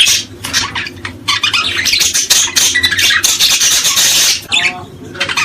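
Several small birds calling at once in a dense, harsh chorus of overlapping chirps and squawks, with no let-up.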